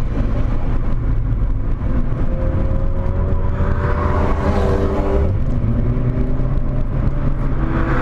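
Volkswagen Corrado 1.8 16V's inline-four engine pulling under load, heard from inside the cabin. The revs climb for a few seconds, then the engine note changes about five seconds in and starts climbing again near the end.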